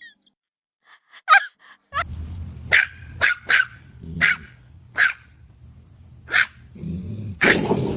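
A dog barking: about seven short, sharp barks with irregular gaps between them, followed by a louder burst of sound near the end.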